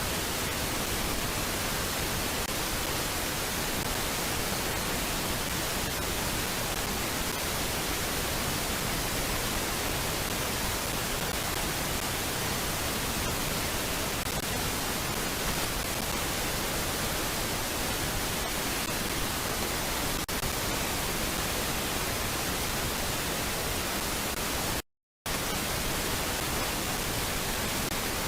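Steady, even hiss like static, with no bird calls standing out; it cuts out to silence for about half a second near the end.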